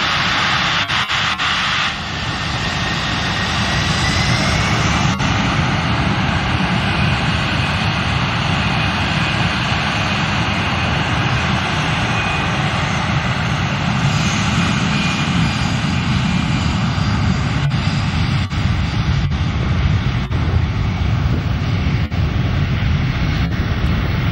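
A Boeing C-17 Globemaster III's four turbofan engines running at high power: a loud, steady jet noise, heaviest in the low end, that shifts about two seconds in and builds, with a faint high whine over it.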